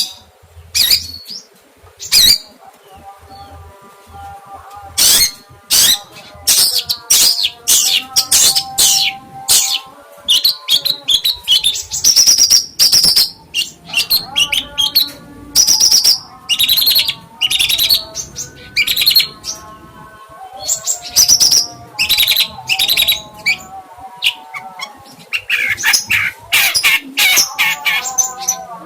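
A songbird calling in rapid runs of sharp chirps, with some clear whistled notes, over quiet melodic background music.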